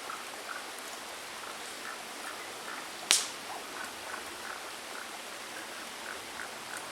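Steady murmur of a small stream, with faint short chirps repeating about twice a second. About three seconds in comes a single sharp crack, the loudest sound here.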